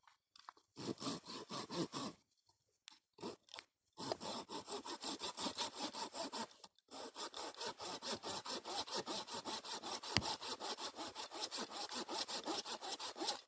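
Hand saw cutting through wood with quick, even back-and-forth strokes, typical of sawing firewood to length. There is a short burst of strokes, a pause, then a long steady run.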